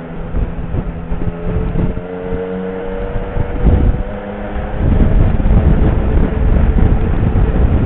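Motorcycle engine running under way, its pitch rising slowly as it accelerates. From about five seconds in, louder wind noise on the microphone covers it.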